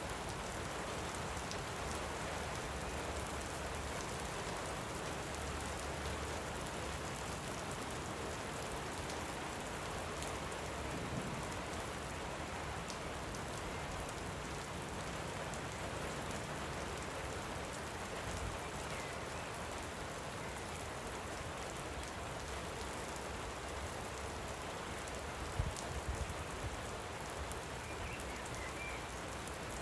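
Steady light rain falling, a continuous even patter. A single brief knock comes about two-thirds of the way through, and a few faint bird chirps come near the end.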